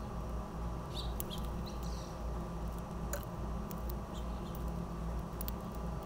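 A few short, high bird chirps, a cluster about a second in and another near four seconds, with scattered faint clicks, over a steady low hum.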